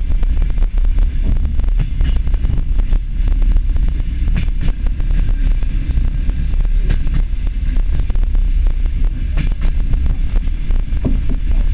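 Passenger train running along the line, heard from inside the carriage: a steady low rumble with frequent rattles and clicks and a few louder clacks.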